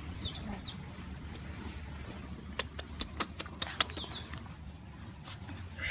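Birds chirping outside in two short bursts of high chirps, with a quick run of sharp clicks or taps in between, over a steady low rumble.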